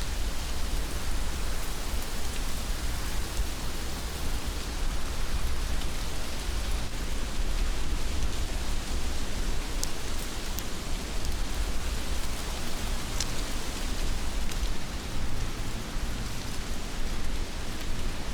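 Heavy rain falling steadily, an even hiss over a low rumble, with a few sharp individual drop hits standing out.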